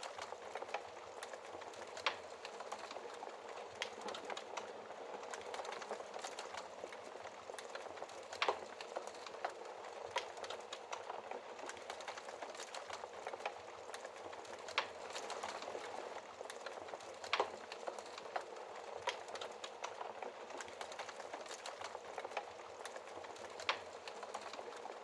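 Wood fire crackling in a fireplace: a dense, even hiss of small crackles with a sharper pop every few seconds.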